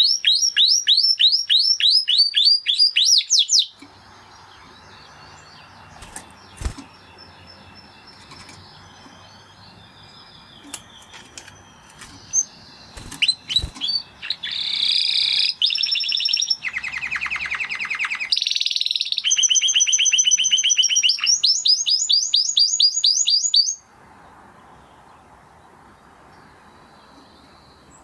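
Spanish Timbrado canary singing in two long runs of fast repeated rising notes, one at the start and one from about halfway, with a quiet stretch between holding a few sharp clicks and a faint hiss.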